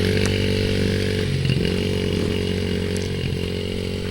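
Small dirt bike engine running at a steady speed, slowly fading a little as the bike moves away.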